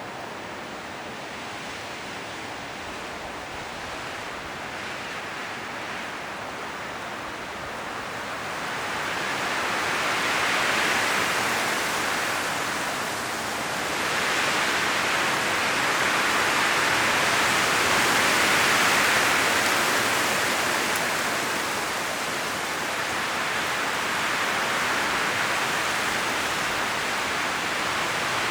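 Wind gusting through trees, rustling the leaves: softer at first, then swelling into stronger gusts about a third of the way in that rise and fall in long waves.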